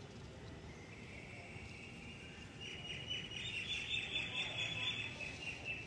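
A bird chirping in a fast trill, growing louder about two and a half seconds in, over a faint steady background hum.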